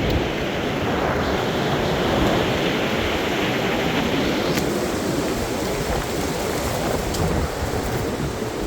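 Strong storm wind blowing in gusts, with the low rumble of wind buffeting the microphone; a gust builds about a second in and eases slightly after the middle.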